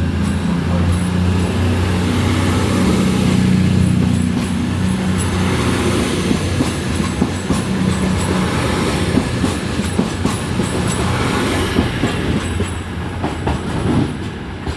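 Passenger train moving along a station platform: a steady low engine hum, then rumbling and clattering of wheels over the rail joints from about six seconds in.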